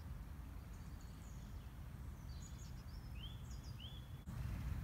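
Small songbirds chirping and calling over a steady low outdoor rumble, with two short rising calls a little after three seconds. The rumble grows louder suddenly near the end.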